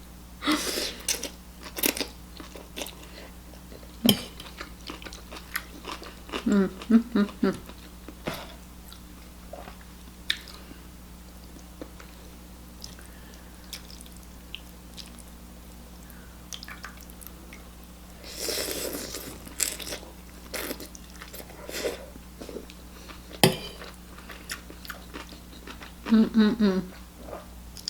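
A person chewing and crunching an airy puffed corn snack close to the microphone: irregular crisp crunches and wet mouth clicks, with a couple of short murmurs.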